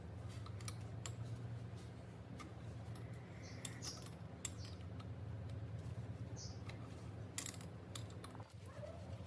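Scattered light metallic clicks and taps of hand tools and loose parts being handled on the engine during its teardown, over a low steady hum. The sharpest click comes about seven seconds in.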